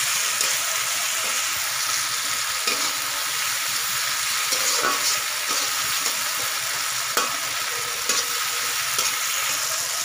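Chopped tomato and onion sizzling in oil in a metal kadai as the tomato fries down to soften, stirred with a flat metal spatula that scrapes the pan about every one to two seconds.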